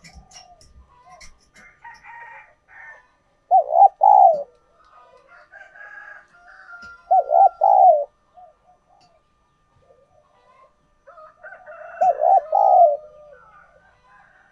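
Spotted dove cooing: three short phrases of two or three low coos each, a few seconds apart.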